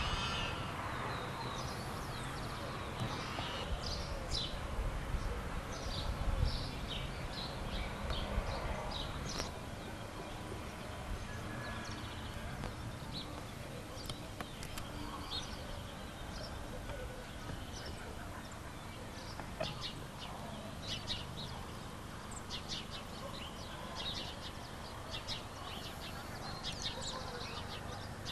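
Small birds chirping in short, repeated calls throughout, over a steady low rumble of outdoor background noise.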